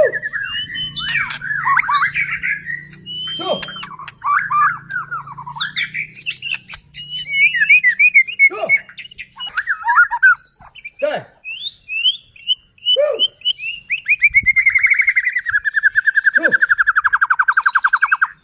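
White-rumped shama (murai batu) singing full, varied song: a continuous run of whistled and chattering phrases with short sharp notes between them. Near the end it goes into a long, fast trill of rapidly repeated notes.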